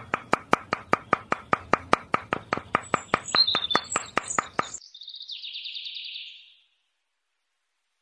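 Rapid, evenly spaced knocks, about six a second, that stop suddenly near five seconds in. High bird-like chirps sound over the last of them, and a short raspy chirp follows.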